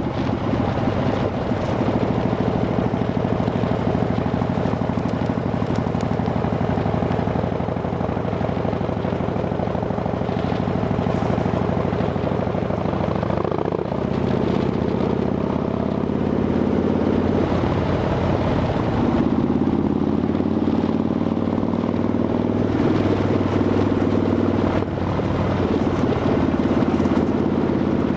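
Harley-Davidson Dyna Fat Bob's V-twin engine running through Vance & Hines Shortshots pipes with quiet baffles, a steady loud exhaust note whose pitch shifts up and down a few times as the engine speed changes.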